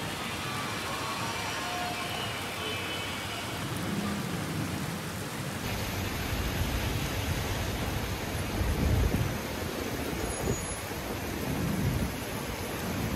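Heavy rain falling steadily on a city street, an even hiss. From about six seconds in, deep low rumbles come and go over it, the loudest about nine seconds in.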